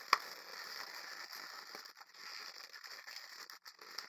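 Hands working latex twisting balloons and a pipe-cleaner wire, with uneven rustling and rubbing. There is a sharp click just after the start and a lighter one near the end.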